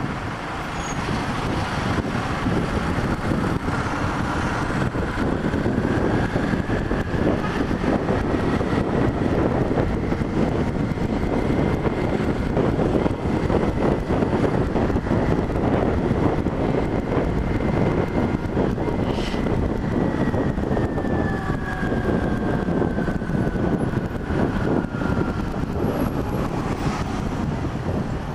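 Motorcycle riding at speed: a steady rush of engine and wind noise. A faint engine tone rises over the first several seconds as the bike speeds up, holds steady while it cruises, and falls away after about twenty seconds as it slows.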